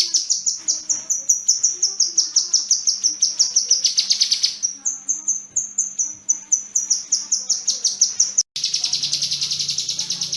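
Kinoi bird singing long, fast strings of high, sharp notes, many a second, repeated without pause. The song breaks off sharply for an instant near the end and then carries on.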